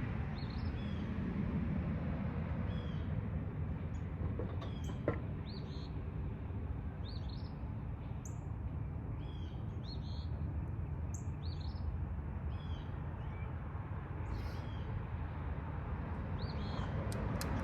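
Small birds chirping in short, scattered high notes over a steady low background rumble, with a single click about five seconds in and a quick run of clicks near the end.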